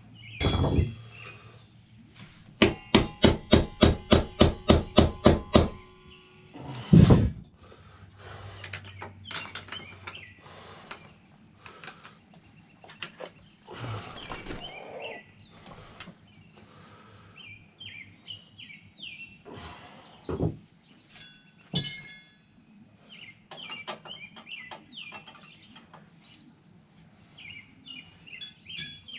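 About a dozen quick metal-on-metal blows, around four a second, each one ringing, then a single heavy thump. After that come scattered clinks and knocks of tools and parts, with birds chirping.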